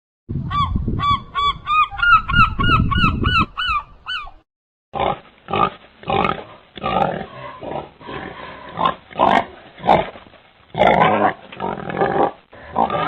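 Animal calls: about four seconds of short, rapidly repeated pitched honking calls, like a goose, over a low rumble. After a brief gap comes a run of rough, noisy grunting calls.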